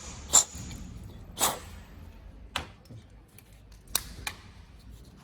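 Several sharp metallic clicks and clinks at irregular intervals, from metal parts and hand tools being handled on a workbench. The loudest come about half a second in and at one and a half seconds, the first with a short high ring.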